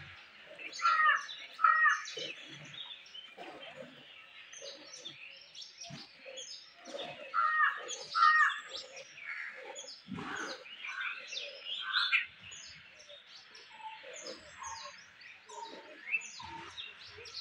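Birds chirping, with a louder two-note call given twice, about a second in and again about eight seconds in. Underneath, milk squirts into a metal pail in a quick, even rhythm as a cow is milked by hand.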